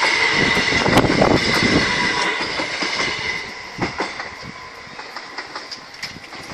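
Southeastern Class 375 Electrostar electric multiple unit passing close by, with wheel rumble, a steady high whine and the clickety-clack of wheels over rail joints. It is loudest about a second in and fades away after about three seconds, leaving a few sharp clicks.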